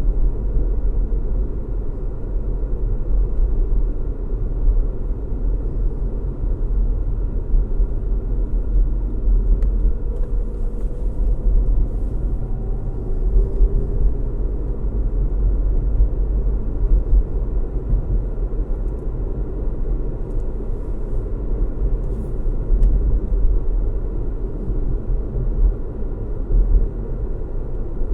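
Car road noise heard from inside the cabin: a steady low rumble of tyres and engine at cruising speed, with a faint rising tone about halfway through.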